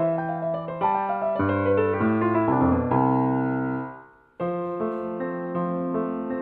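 Solo piano playing a sonatina: quick notes, then a held chord that dies away about four seconds in, a brief pause, and steady playing again.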